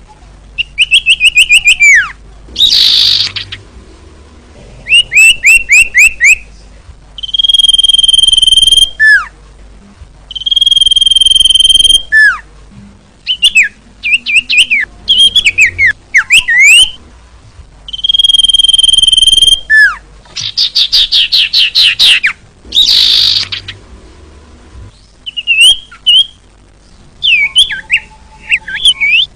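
Female common iora (cipoh/sirtu) calling: long, steady, high whistles, each ending in a falling slur, alternate with quick rattling trills and short chirps in a repeating sequence. This is the female call used to lure male irioras.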